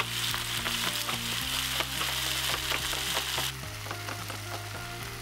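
Pork, onions and kimchi sizzling in a hot frying pan as the kimchi and its juice go in and are stirred. The sizzle is loudest for the first three and a half seconds, then drops to a softer, steady sizzle.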